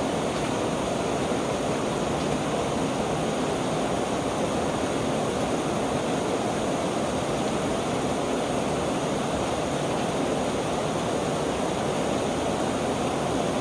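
Steady rain pouring down onto a wet paved street, an even rushing hiss that holds unchanged throughout.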